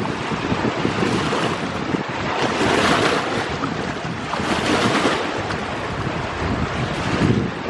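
Sea waves washing in, surging louder about every two seconds, with wind buffeting the microphone.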